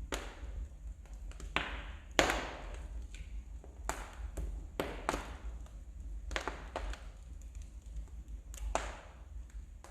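Wood fire in a fireplace crackling, with irregular sharp snaps and pops of burning logs, one louder crack about two seconds in, over a steady low rumble of the flames.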